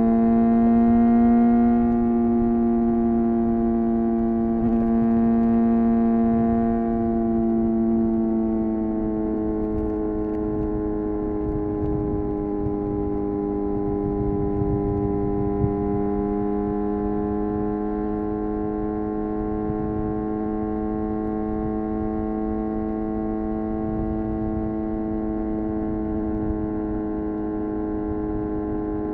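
Suzuki GSX-R750's inline-four engine and exhaust at steady cruising revs under way, the pitch sagging a little over the first several seconds and then holding even, with a low rushing noise underneath.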